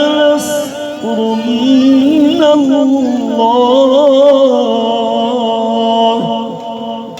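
A male qari chanting Quran recitation (tilawat) in long, ornamented melodic phrases, the voice held and wavering up and down in pitch without pausing for words. It eases off near the end.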